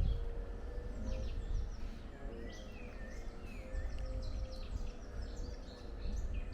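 Woodland birdsong: several small songbirds singing at once, with quick overlapping chirps and trills, over a low steady rumble of background noise.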